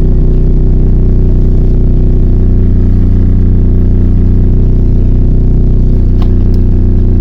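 MAZ 103 city bus's diesel engine running at a steady pace, heard from inside the passenger cabin during the ride. A couple of light clicks or rattles come about six seconds in.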